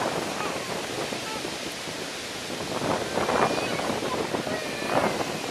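Steady noise of surf and wind buffeting the microphone, with a few faint short high calls over it.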